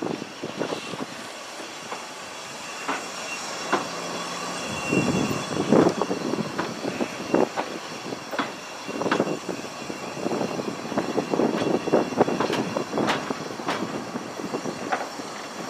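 Lynton & Barnstaple Railway narrow-gauge steam train running along the line, heard from aboard a carriage: a steady rumble with irregular clanks and knocks from the wheels on the track.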